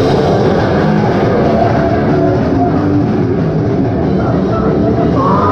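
Heavy metal band playing live, with distorted electric guitars and a drum kit at full volume. The song kicks in suddenly and runs dense and unbroken.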